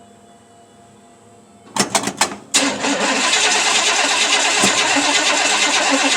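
Chevrolet 383 stroker small-block V8 cranking for a few turns of the starter, then catching about two and a half seconds in and running loud and steady.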